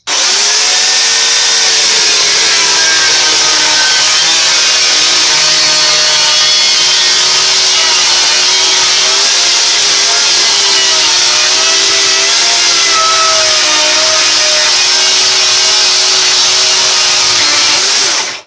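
Makita UC3541A corded electric chainsaw running and cutting through a damp 6-by-4 timber, its motor whine wavering slightly under load. It starts and stops abruptly, and goes straight through the wood with no trouble.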